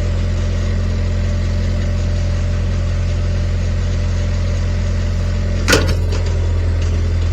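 An engine idling steadily, with a sharp knock about two thirds of the way through, followed by a smaller one.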